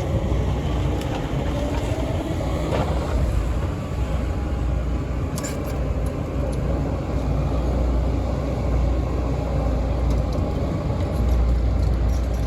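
Heavy diesel machinery running steadily under work, a deep low rumble with a few faint clicks.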